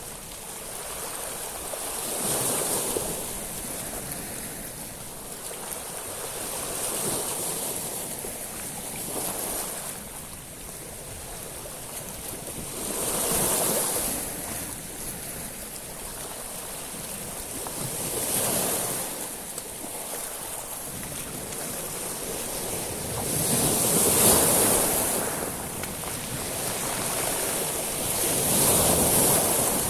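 Sea waves washing over a shingle beach of small stones, the water hissing through the pebbles as each wave runs up and draws back. Six swells about every five seconds, the loudest about two-thirds of the way through.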